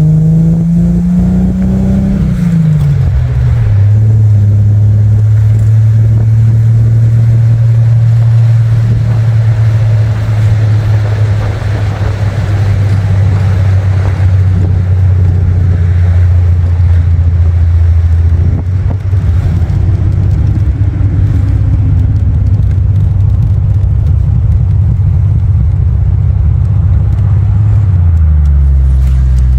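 1974 Triumph TR6's engine and exhaust under way on a test drive: the revs climb for about two seconds and then drop sharply at a gear change. The engine then holds a steady pitch at a cruise before the revs fall again near the end.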